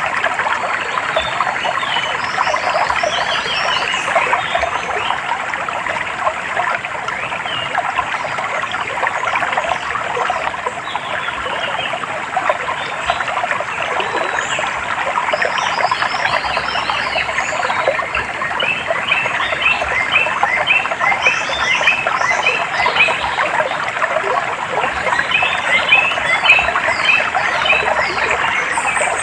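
A dense chorus of animal calls, many short rapid chirps overlapping, over trickling water. A run of quick repeated chirps stands out in the second half.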